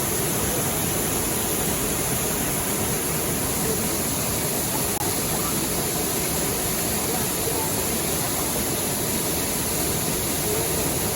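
Steady rush of a waterfall on a river: water falling and pouring at a constant level, with faint voices under it.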